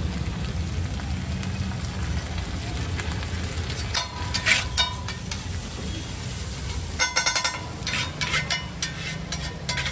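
Eggs sizzling on a hot griddle while a metal spatula scrapes and clanks against it in quick bursts, about four seconds in and again from about seven to eight and a half seconds, the strikes ringing briefly. A steady low rumble runs underneath.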